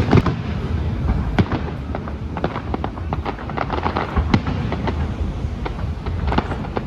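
Fireworks going off: a rapid, irregular string of sharp bangs and crackles over a steady low rumble, with louder reports about a second in and again past the four-second mark.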